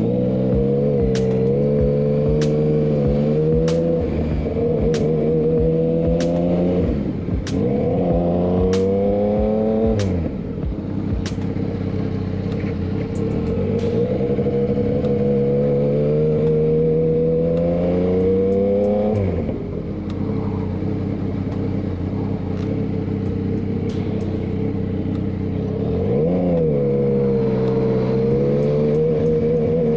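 Motorcycle engine running under way, its pitch climbing steadily and then dropping sharply several times as the rider shifts or rolls off the throttle and picks up again. A regular light ticking, about one and a half per second, runs over the first ten seconds or so.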